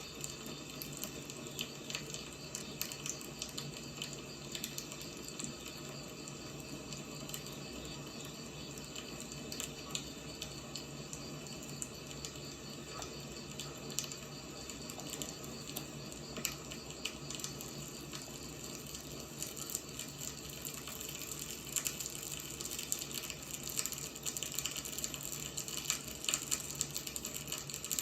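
Wood fire burning: a steady hiss with frequent small crackles and pops, which come thicker in the last few seconds.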